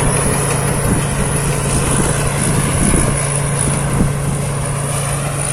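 Rice combine harvester running steadily while harvesting: a constant engine hum with a thin steady high whine above it.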